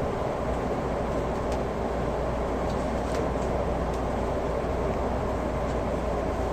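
Steady rumbling running noise inside a moving JR 383 series limited express train carriage, with a few faint ticks.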